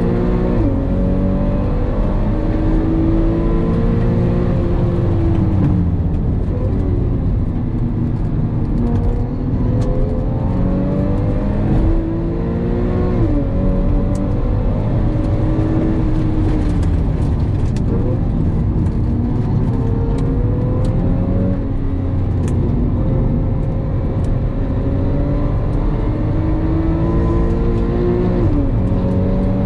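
Porsche 911 (997) flat-six engine heard from inside the cabin under hard track driving, its pitch climbing steadily and dropping sharply at each gear change, again and again, over constant road noise.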